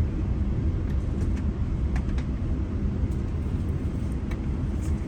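Steady low rumble of a GO Transit commuter train running along the track, with a few faint clicks scattered through it.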